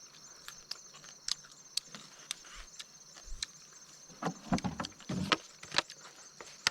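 Steady high buzzing of insects, with irregular clicks and crackles throughout, growing into a cluster of louder knocks and crackles about four to six seconds in.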